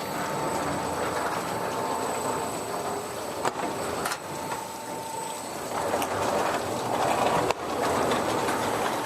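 Komman Monster XL-4200 automatic carpet washing machine running: a steady mechanical clatter and rush with a thin steady whine, broken by a few sharp knocks.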